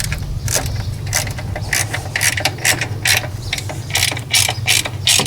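Small socket ratchet clicking in short back-and-forth strokes, roughly three clicks a second, as bolts on the generator's plastic mixer housing are run down and snugged.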